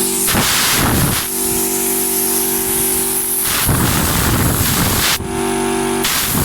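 Hawk Tools 100-litre, 3 HP twin-cylinder V air compressor running steadily to refill its tank, with three hissing blasts of air from an air gun being triggered, each about a second long or a little more.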